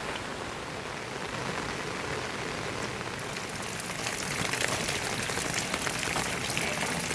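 Heavy rain falling steadily. About three seconds in it grows louder, with many sharp drops striking close by.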